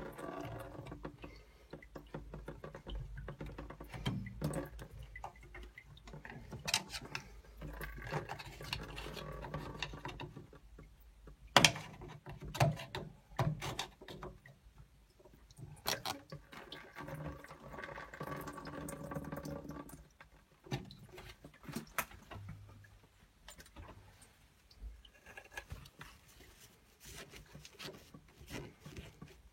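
Water trickling and dripping out of a drained combi boiler into a tray, with scattered sharp clicks and knocks and one louder knock about a third of the way in.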